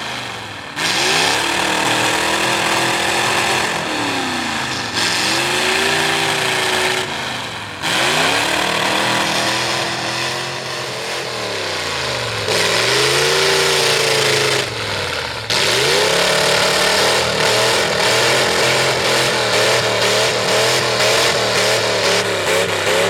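Ford V8 mud truck engine with open upright headers revving hard under load. The pitch climbs and falls several times, with sudden drops between pulls as the driver lifts and shifts the manual gearbox. Near the end it holds at high revs with the pitch wavering quickly up and down as the throttle is worked.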